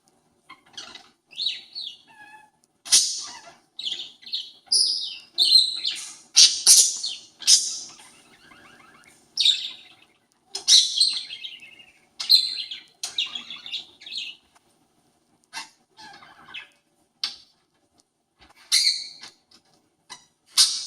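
Parakeet imitating a conure: a run of short, harsh, high screeching calls in quick succession, thinning out with a pause before a last few calls near the end.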